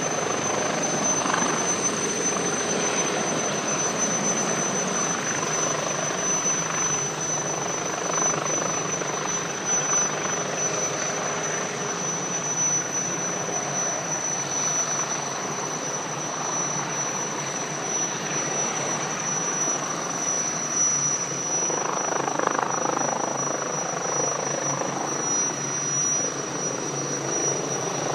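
Airbus Helicopters H145 D2 helicopter running steadily, its twin turbines giving a constant high whine over the even rush of rotor and engine noise.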